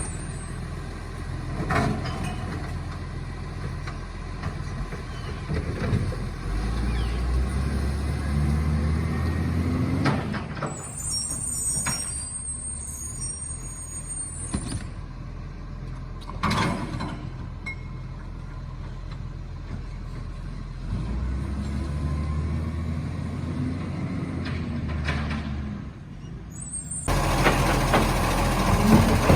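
Garbage truck's diesel engine running and revving up twice, as it does to drive the bin-lifting hydraulics, with a few sharp clunks, high squeals and air hisses. The sound grows louder and fuller near the end.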